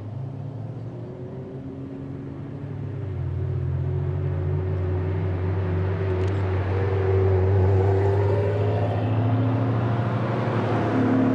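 Supercar engine running at low revs, a steady low note that grows louder from about three seconds in and stays loud.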